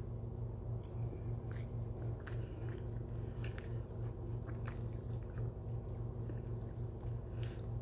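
A person chewing a mouthful of omelet: soft, irregular mouth clicks and smacks over a steady low hum.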